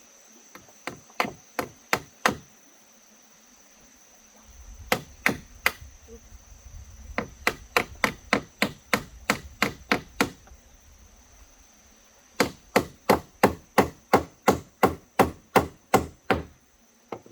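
Hammer driving nails into wooden boards: runs of quick, sharp blows about three a second, with short pauses between the runs. A steady high insect chirr continues underneath.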